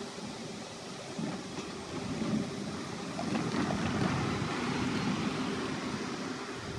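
Train passing on the line, a rumble of wheels on rails that grows louder about three seconds in.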